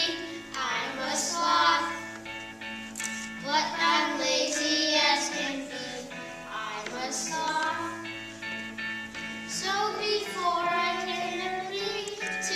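Children singing a song over an instrumental accompaniment of steady held chords.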